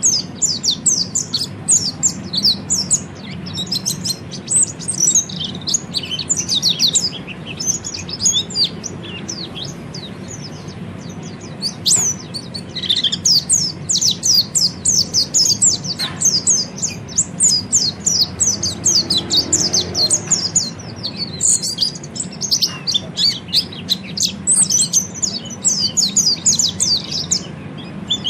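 Orange-headed thrush (peleci) singing in the rapid twittering 'ngeriwik' style: dense runs of quick, high, downward-sliding chirps that thin out briefly near the middle.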